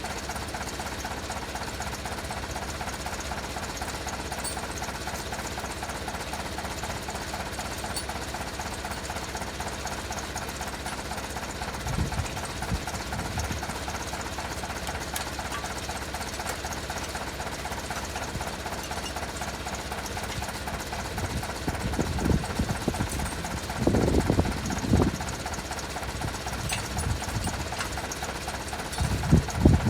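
Tractor engine idling with a steady, rapid clatter. Several louder low surges come about halfway through and again near the end.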